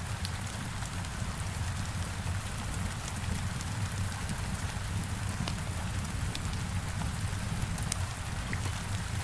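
Heavy rain falling steadily, an even hiss over a low rumble, with scattered sharp crackles from a wood fire.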